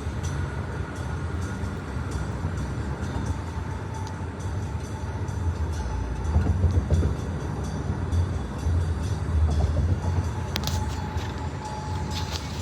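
Union Pacific train rolling by on the track, a steady low rumble of wheels on rail that swells midway, with faint steady ringing tones and a few sharp clicks near the end.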